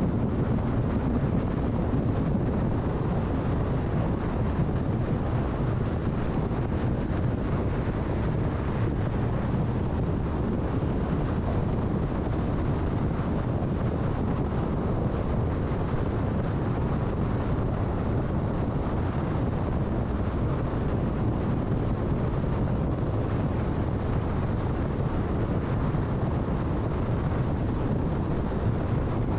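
Car driving at freeway speed: a steady rush of tyre and wind noise, heaviest in the low end, with no changes.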